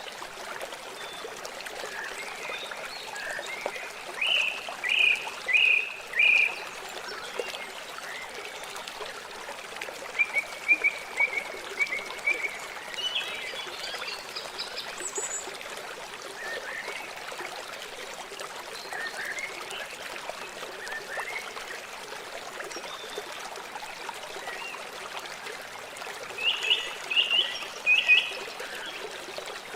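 River water flowing steadily, with short chirping animal calls over it in quick runs of three or four, a few times.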